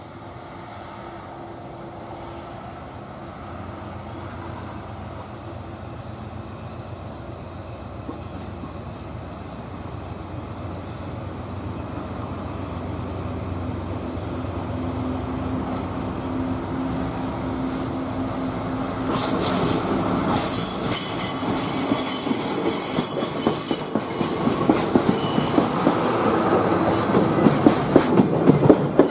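A train approaching and pulling into a station, growing steadily louder. About two-thirds of the way in, high wheel squeal sets in, and near the end the wheels clack rhythmically over the rail joints.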